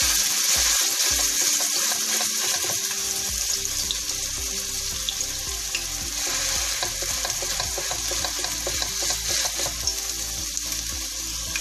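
A raw beef chapli kabab sizzling in hot oil in a frying pan, the sizzle loudest just after it goes in and easing slightly as it fries.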